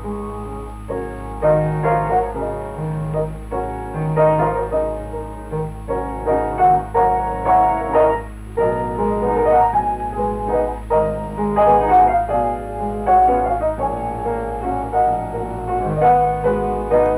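Piano music playing a rhythmic sequence of repeated chords, over a steady low hum from the old film soundtrack.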